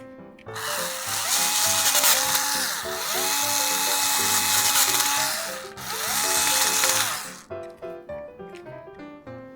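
Drill-like whirring over background music, with a whine that rises, holds and falls. It breaks off briefly about six seconds in, runs again, then stops about a second later.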